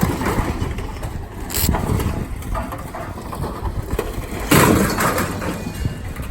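Scrap metal being unloaded, with irregular clanks and clatter and one loud crash about four and a half seconds in, over a low engine rumble.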